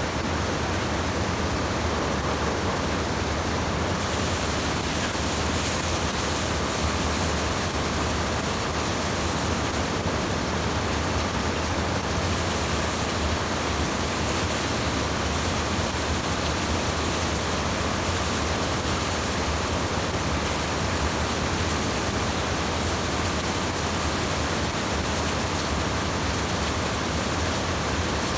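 Steady rush of stream water pouring over a small erosion-control dam (weir), an even unbroken hiss with a low rumble underneath.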